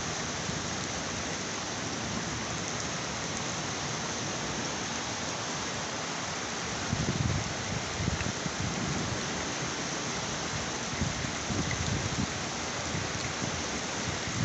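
Heavy rain pouring steadily, with a few brief low rumbles from about halfway through.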